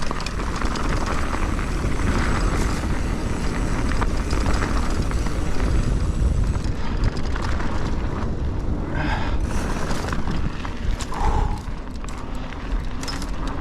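Wind rushing over the camera microphone with a steady low rumble, mixed with mountain-bike tyres rolling over a rough dirt trail and a few brief clicks from the bike during a fast downhill run.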